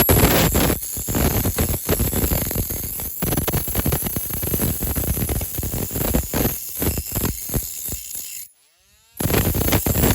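Irregular scraping and clicking of hand-tool work on a small diecast metal model, broken by a brief silent gap near the end.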